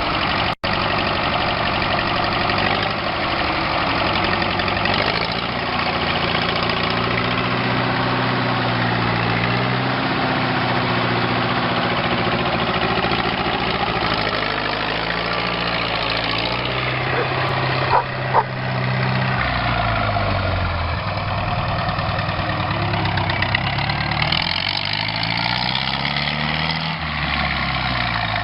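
A motor engine running, its pitch slowly rising and falling, with two brief sharp sounds about two-thirds of the way through.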